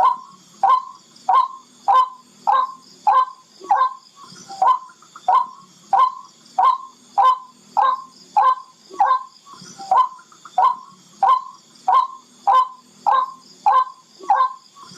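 Barred rail (tikling) calling: a short, sharp call repeated over and over at an even pace, about one and a half calls a second, over a faint steady high hiss.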